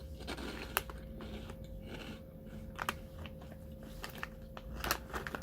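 A person chewing crunchy Calbee shrimp snack crackers close to the microphone, with scattered sharp crunches through the chewing.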